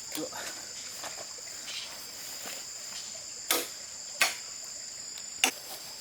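Steady high-pitched chirring of insects, with three sharp knocks in the second half, the loudest sounds here, and a few fainter ticks.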